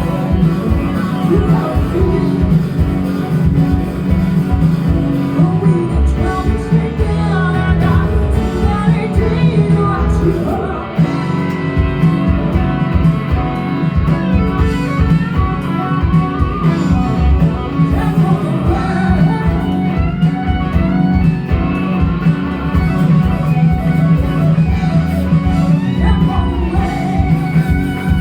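Live rock band playing: guitar, bass and drums with a fast steady beat, and a singer's voice over it.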